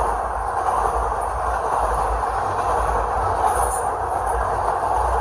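Double-stack container cars of a freight train rolling past, a steady rumble and rattle of steel wheels on rail. There is a brief high-pitched wheel screech about three and a half seconds in.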